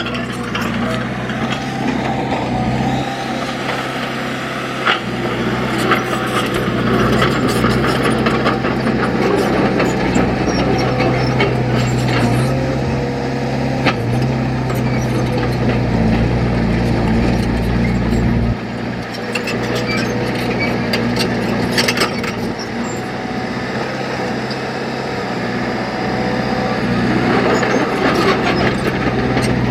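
Diesel engine of heavy earth-moving machinery running steadily, its note shifting about 3 seconds in and again near the middle, with a few sharp knocks along the way.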